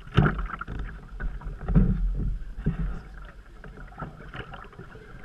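Canoe being paddled: paddle strokes in the water with sudden thumps, loudest near the start and about two seconds in, over a low rumble.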